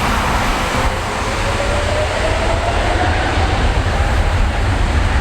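Jet engines of a Boeing 777-200ER airliner running with a deep, steady rumble and a faint tone that rises slowly in pitch.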